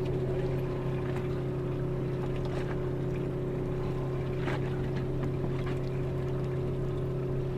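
Boat engine running steadily, a constant low hum, with a few faint knocks about two and a half and four and a half seconds in.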